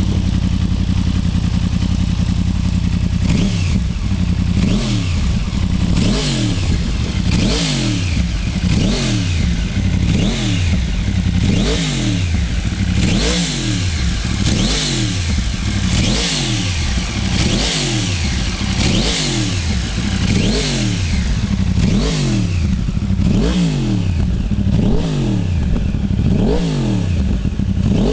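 2009 Yamaha R1's crossplane inline-four running through an Akrapovič muffler with its baffle left in: a steady idle, then about three seconds in, repeated quick throttle blips, each revving up and falling back, about one a second.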